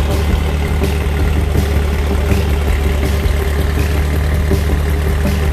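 Ford Kent crossflow four-cylinder engine idling steadily, a loud even hum with no change in speed.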